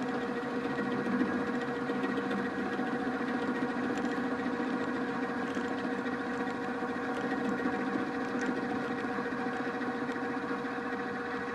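Drill press spinning an end mill held in its drill chuck and cutting across a part, a steady machine sound with rumbling and chatter. The chatter comes from the quill's lack of stiffness: the tool deflects on every cut and leaves an irregular surface.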